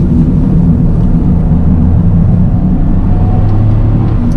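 Toyota GR Yaris's turbocharged three-cylinder engine running steadily under way, a loud low drone.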